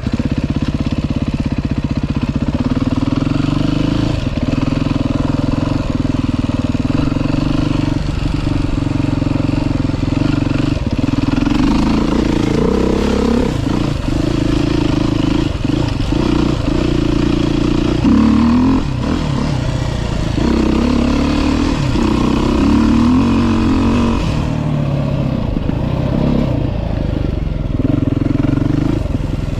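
2023 Beta 390 RR-S dirt bike's single-cylinder four-stroke engine being ridden hard around a trail, its note rising and falling again and again as the throttle is opened and shut, with short dips every few seconds.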